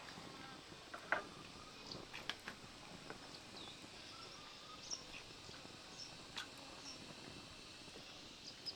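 Faint outdoor ambience with a few short, high bird chirps scattered through it and several light clicks or taps, the loudest about a second in.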